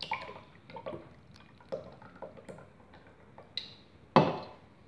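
A drink can being handled and opened: a run of small clicks and taps, then one louder sharp crack about four seconds in. No fizz follows, as the drink is not carbonated.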